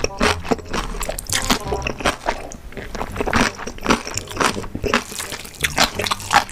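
Close-miked wet slurping and chewing of glass noodles in a thick spicy sauce: a rapid, irregular run of sticky mouth clicks and smacks.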